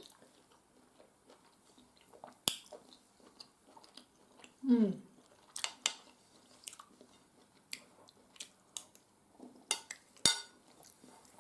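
A person eating: quiet chewing with several sharp clinks of cutlery on a plate, loudest about two and a half seconds in and near the end. About five seconds in there is a short falling hum.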